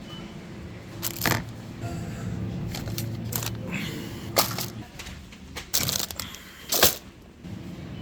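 Knocks, clicks and crackles of groceries and their packaging being handled while shopping, over a low steady hum; the sharpest knocks come about a second in, and between four and seven seconds in.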